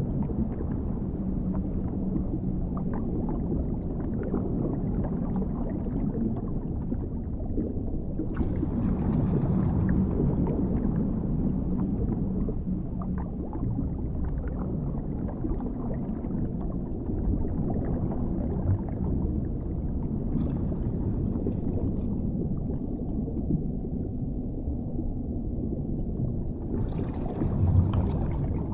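Underwater ambience: a steady, deep, muffled rumble that twice swells into a brighter hiss, once about nine seconds in and again near the end.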